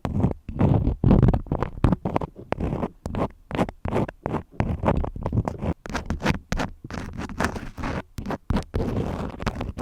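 Crayons scratching in quick, irregular back-and-forth strokes, several a second.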